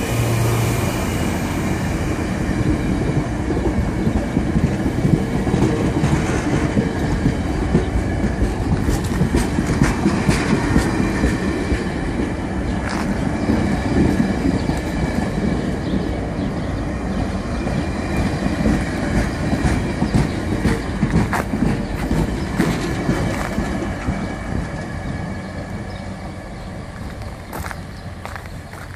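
VIA Rail passenger train rolling past, its wheels clicking over the rail joints, fading away near the end as it pulls out.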